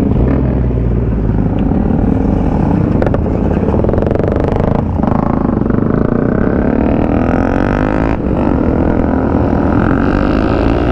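Motorcycle engine running under way, with the engine note rising steadily from about six seconds in as the bike accelerates.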